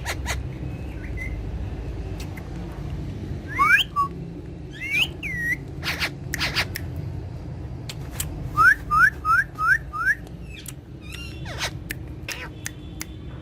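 Alexandrine and ringneck parakeets whistling short rising notes, with a quick run of five rising whistles a little before the middle and sharp squawks and clicks in between. A steady low hum lies underneath.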